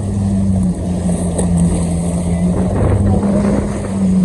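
Jet ski engine running at a steady pitch while riding, with a hiss of noise over the hum.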